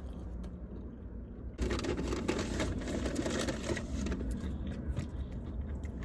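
Crinkling, rustling handling noise close to the microphone. It starts suddenly about a second and a half in and eases off after about four seconds.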